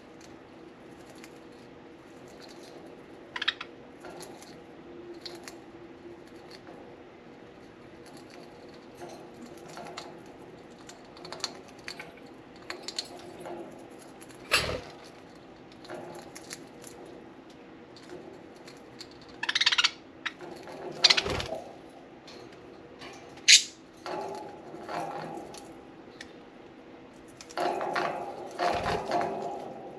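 Budgies chewing and shredding a soft-wood toy: scattered small clicks, knocks and crunches, busier near the end, with a few short high chirps.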